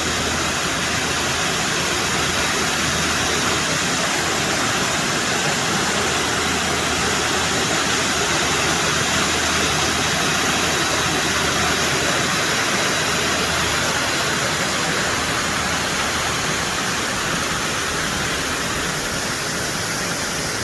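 Creek water rushing over a small cascade, a steady, unbroken hiss.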